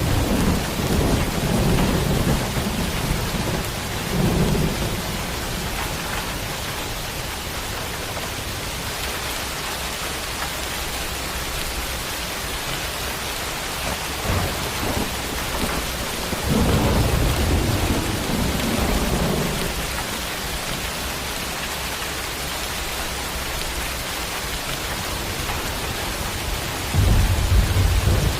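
Steady heavy rain with rolls of thunder rumbling over it: a long roll in the first few seconds, another around the middle, and a shorter, louder one near the end.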